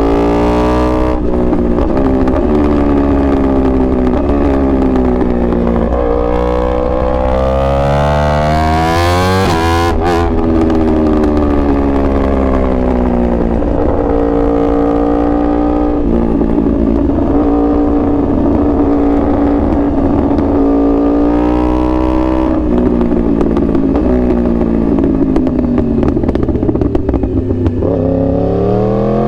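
2021 Yamaha R1 sport bike's crossplane inline-four engine revving up and down under throttle. The revs climb for several seconds and cut off sharply about ten seconds in, then fall away, hold steady for a while, and rise and fall again near the end.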